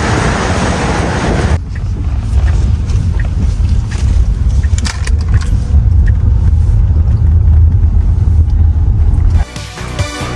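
Street noise with a broad hiss for about the first second and a half, then a sudden cut to a loud, steady low rumble with a few faint clicks. Music starts near the end.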